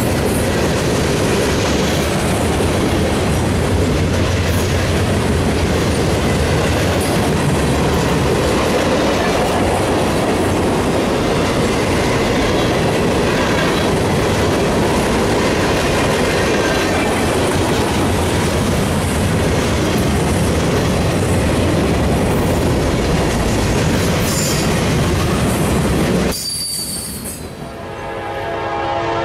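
Freight cars rolling past at track speed: a steady, loud rumble of wheels on rail with clickety-clack over the joints. About three seconds before the end the sound drops away, and a diesel locomotive's air horn comes in, growing louder toward the end.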